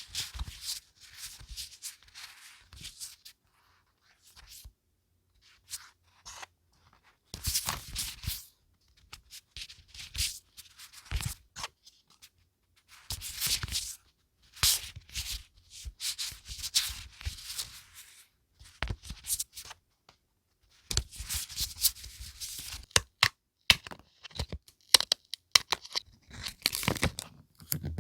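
Paper being handled and torn at close range, in short irregular bursts with quiet pauses between.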